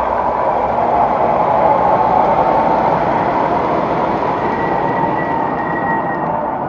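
MTH model subway train running along the track: a steady rolling hum of its motors and wheels mixed with the onboard subway running sound, with a faint high whine for a second or two past the middle.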